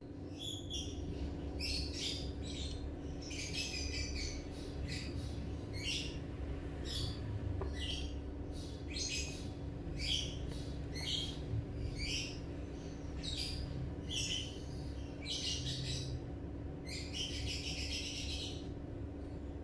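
Birds chirping in short, irregular calls, one or two a second, over a steady low hum.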